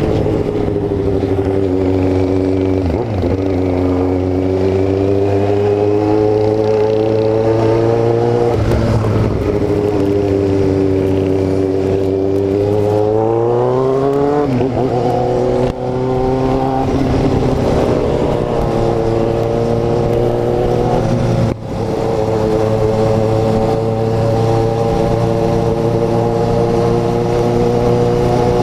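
Kawasaki Z750's inline-four engine under way, its pitch rising and falling with the throttle and climbing strongly through the revs about halfway through. Two brief sudden dips in the sound come later, as at gear changes, and then it settles to a steady cruise.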